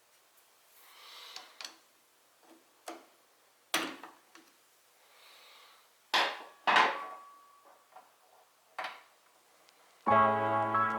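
Scattered handling knocks and clinks, some of which ring briefly, with a couple of soft rustling swells between them, as tools or bike parts are set down and moved. Soft piano music starts abruptly near the end.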